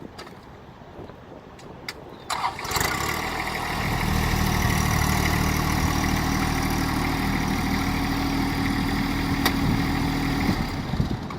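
Compact tractor's diesel engine cranking and catching about two seconds in, running steadily, then shutting off near the end.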